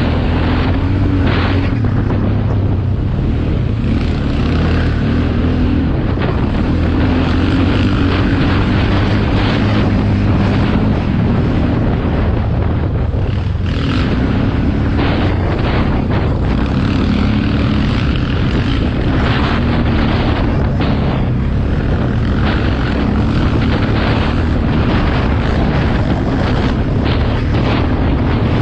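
Motocross motorcycle engines running loud and continuously, their pitch rising and falling as the throttle opens and closes.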